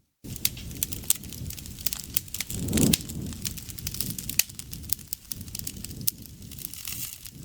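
Campfire crackling and popping with many irregular sharp snaps. A louder low rushing swell comes about three seconds in, and there is a brief dropout at the very start.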